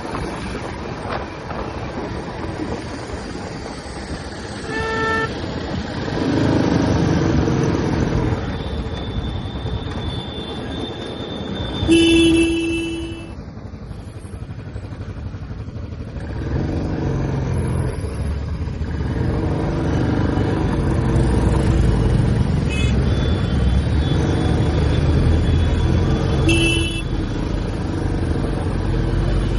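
Royal Enfield Classic 350's single-cylinder engine running under a rider in city traffic, growing louder about halfway through. Vehicle horns honk a few seconds in, louder about twelve seconds in, and again near the end.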